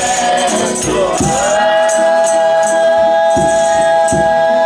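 Folia de Reis singing with instruments: the verse ends about a second in on a long held note that carries on, over a steady beat of low drum strokes and tambourine jingles.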